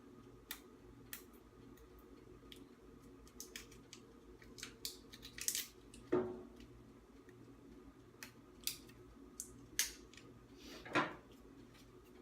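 Kitchen handling noises: scattered sharp clicks and taps, with two heavier knocks about six and eleven seconds in, over a faint steady hum.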